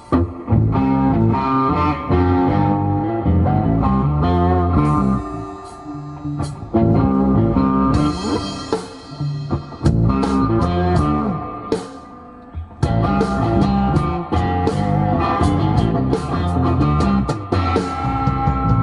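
Blues-rock band playing an instrumental passage, led by guitar over bass and drums.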